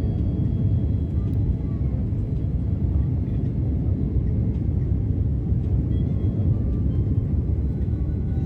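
Steady low rumble inside an airliner's cabin: the jet engines and airflow heard from a window seat, even and unbroken.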